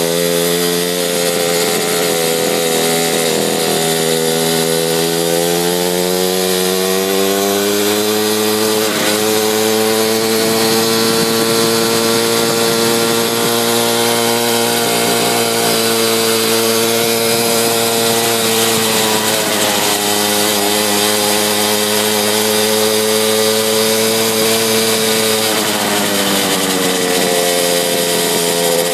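Mini bike's small engine running under way, its pitch climbing about six seconds in, holding steady, dipping briefly about two-thirds of the way through and dropping off near the end as the throttle eases.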